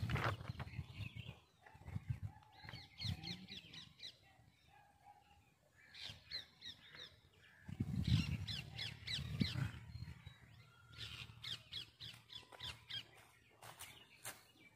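Birds calling in several short runs of quick, high, repeated notes, a few seconds apart.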